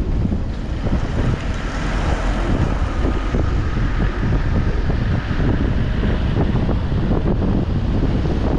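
Loud wind buffeting the microphone over the low rumble of a car driving along a road.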